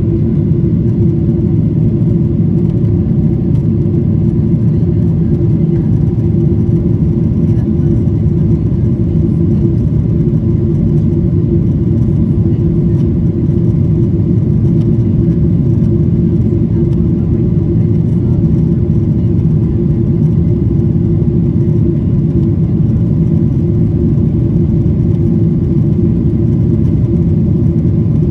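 Aeroplane noise: a steady low rumble of engines and rushing air that does not change.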